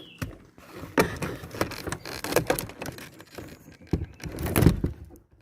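Footsteps crunching and clattering over rubble and debris: an irregular run of crackles and knocks, with a few louder knocks. It drops away near the end.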